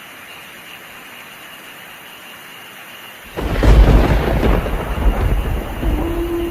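Steady rain with a faint, even cricket trill. About three seconds in, a sudden loud, deep rumble of thunder breaks in and keeps rolling.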